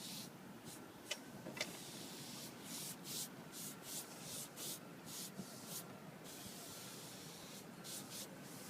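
Brush strokes across teak decking while teak sealer is applied: a quick run of short swishes, about three a second, with one longer unbroken stroke partway through. Two sharp clicks come in the first two seconds.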